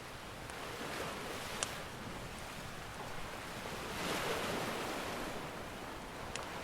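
Ocean surf washing steadily, with a wave swelling about four seconds in, and a few sharp crackles from a wood fire.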